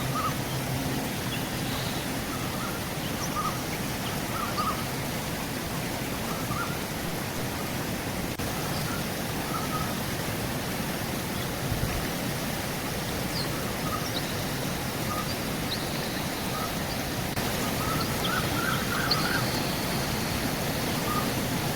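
Steady rush of river water, with small birds chirping briefly here and there, a few in quick succession near the end.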